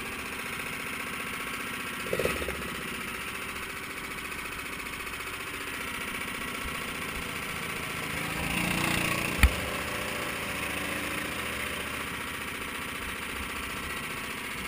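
Mini sprint car engines running steadily, swelling briefly about eight seconds in, with a sharp click about nine and a half seconds in.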